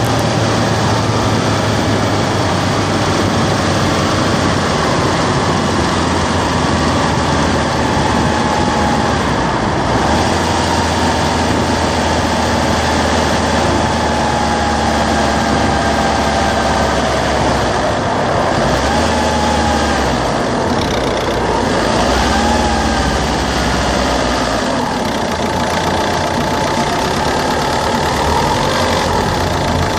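Citroen C3's 1.4 HDi DV4TD four-cylinder turbodiesel running, its low engine note stepping to a new pitch several times, with a fainter whine that rises and falls.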